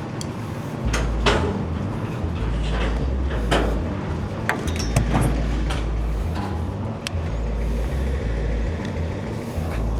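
Truck engine running with an uneven low rumble, with scattered knocks and clanks.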